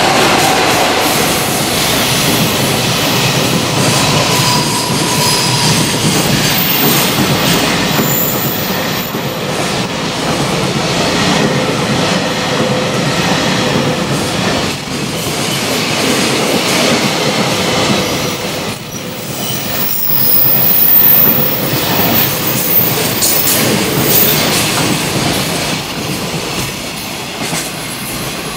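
JR Freight container train passing at speed behind an EF66 electric locomotive: the locomotive goes by first, then a long run of container wagons whose wheels rumble and clack over the rail joints. Faint thin squeals from the wheels ride over the steady rolling noise.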